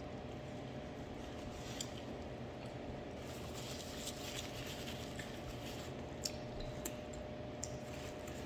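Person chewing a chili dog, with a few faint wet mouth clicks, over a steady low hum.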